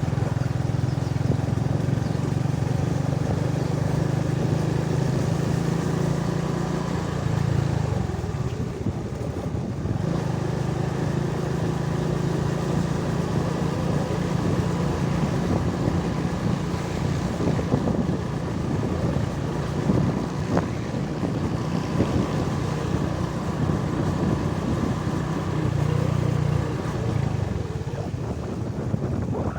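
A vehicle engine running steadily while on the move, with wind buffeting the microphone. The engine eases off briefly about a quarter of the way in and again near the end.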